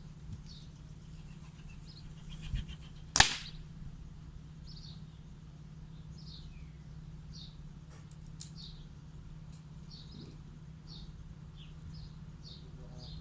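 A single sharp crack about three seconds in: one shot from a Stoeger air rifle. A small bird chirps repeatedly, in short notes spaced under a second apart.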